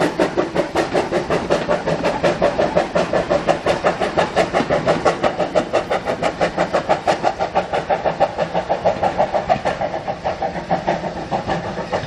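An engine running with a steady, rhythmic exhaust beat, about five beats a second, easing off slightly near the end.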